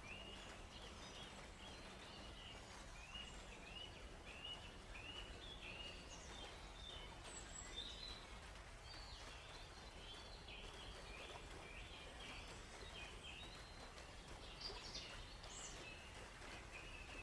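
Songbirds chirping faintly over a steady background hiss: one bird repeats a short high note about twice a second over the first several seconds, then varied chirps follow, with a few higher notes near the end.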